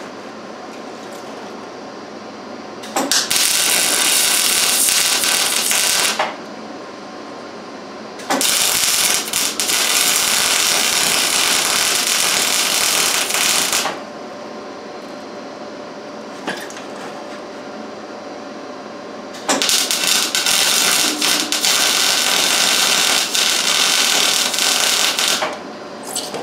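Electric arc welding: three welds, each a few seconds of steady, loud crackling sizzle that starts and stops abruptly, with pauses between them.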